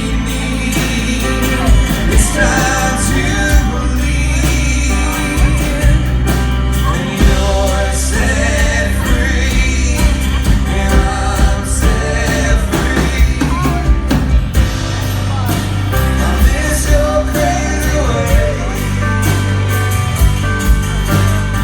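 Live band playing a song with a sung lead vocal over a strong bass line and a regular beat.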